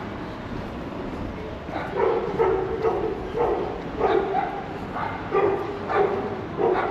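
A dog barking repeatedly, about two barks a second, starting about two seconds in, over general street background noise.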